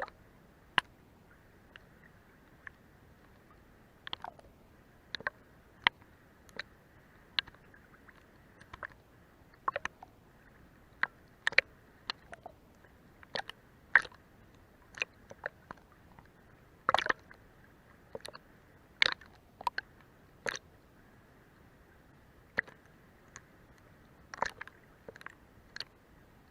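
Seawater lapping under a boat's hull. Irregular small slaps, drips and plops come about one or two a second over a faint steady hiss.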